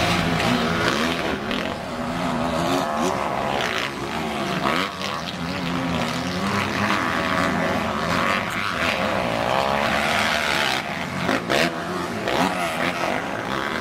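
Several motocross bikes racing round the track, their engines revving up and down as they accelerate and shift, overlapping one another.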